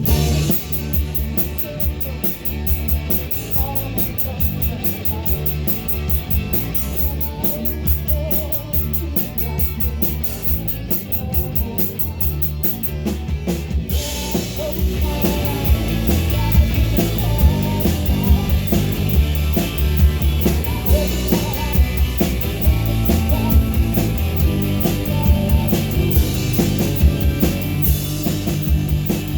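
A live rock band playing, with drum kit, bass and guitar. The first half is driven by a fast, even cymbal beat, and about halfway through the band moves into a fuller, slightly louder section.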